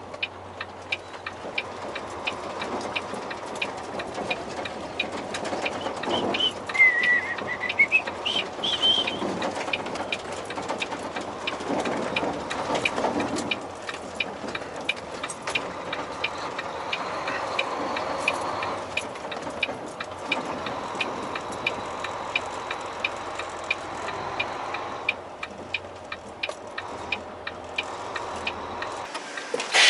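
Hazard flasher relay ticking with the 4-ways on, steady and even, over the low hum of the idling truck engine. Both cut off near the end. A brief high chirp glides up and down about seven seconds in.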